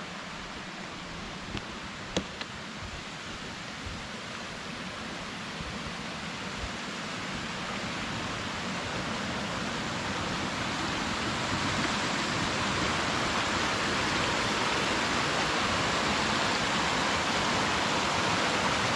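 Running water of a mountain stream, a steady rush that grows gradually louder, as if being approached. A couple of small knocks sound in the first few seconds.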